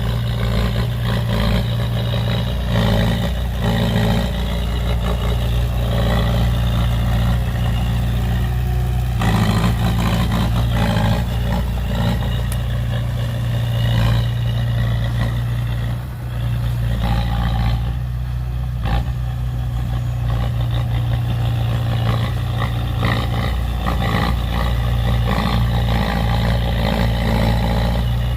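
Heavy earthmoving machinery (dump trucks and a bulldozer) working, their diesel engines running loud and steady with scattered metallic clanks.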